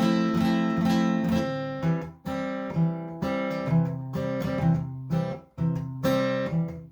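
Acoustic guitar strumming chords, with no singing: an instrumental passage of a song.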